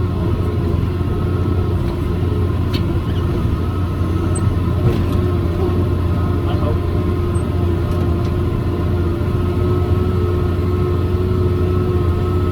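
John Deere 7410 tractor's six-cylinder diesel engine running steadily under load while pulling a John Deere 468 round baler through the windrow, a constant drone with a few faint ticks.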